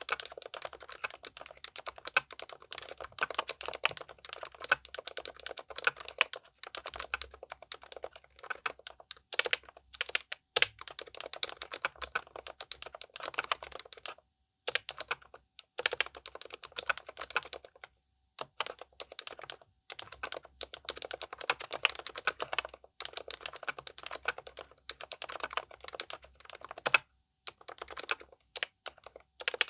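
Continuous typing on a Keychron K10 Pro SE mechanical keyboard with pre-lubed silent red (linear) switches: a fast stream of soft, muted keystrokes in runs broken by brief pauses, with occasional louder strokes, as of the space bar or another large key.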